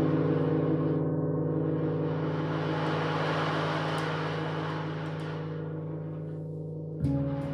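Gongs ringing on with several steady low tones and a shimmering wash that slowly dies away, then a fresh gong stroke near the end.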